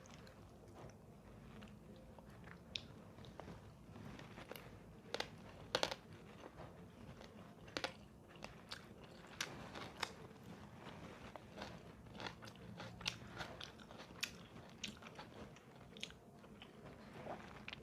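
A person chewing and biting crunchy food, with irregular sharp crunches a few times a second.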